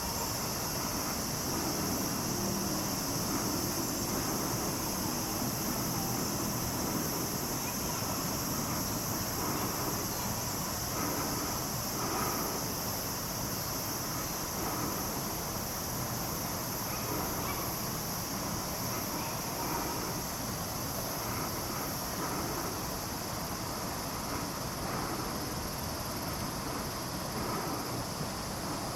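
Steady outdoor background noise: a wind-like rush with a constant high-pitched hiss, and no distinct calls or knocks.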